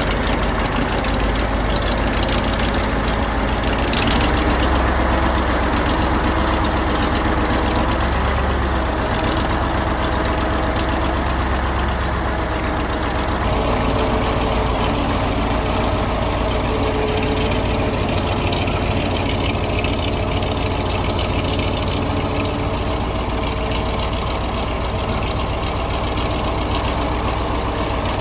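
KAMAZ 4310 6x6 truck's V8 diesel engine running steadily while driving off-road, its sound changing about halfway through.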